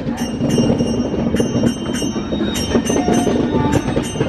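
A moving passenger train heard from inside the coach: a steady heavy rumble of wheels on track, with repeated short metallic clinks and jingles every few tenths of a second.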